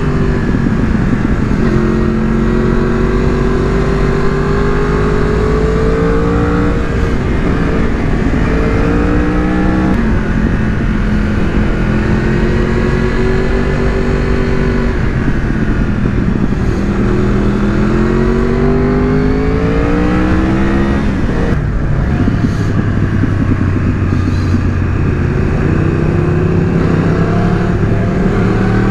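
Yamaha R1 motorcycle's inline-four engine pulling hard through the gears, its pitch rising in each gear and dropping at each of four upshifts.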